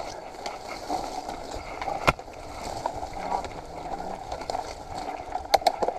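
Mountain bike rolling over a wet dirt trail: steady tyre noise and rattling of the bike, with a sharp click about two seconds in and two quick clicks near the end.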